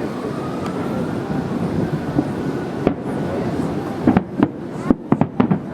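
Fireworks shells bursting: steady background noise at first, then sharp bangs from about three seconds in, several in quick succession near the end.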